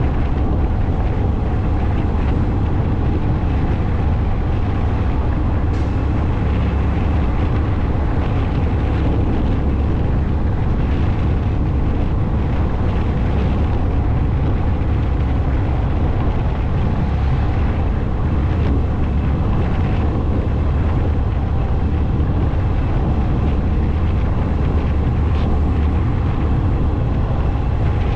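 Motorcycle riding at a steady speed: a steady low drone of engine and road noise, with no revving or gear changes.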